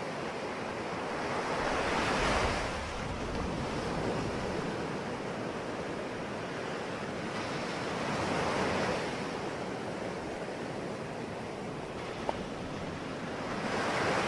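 Sea waves breaking on a shore, a steady wash with a louder surge about every six seconds, three in all.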